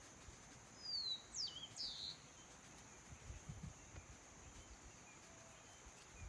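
A wild bird giving three quick, high sliding whistle calls about a second in, over the steady high drone of insects in the surrounding vegetation.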